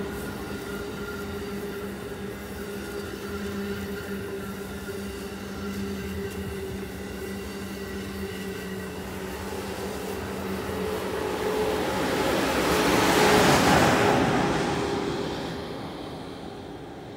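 Amtrak Acela Express trainset running past at speed, with a steady rumble and a low hum. The noise swells to its loudest about thirteen seconds in as the tail of the train goes by, then fades as the train moves away.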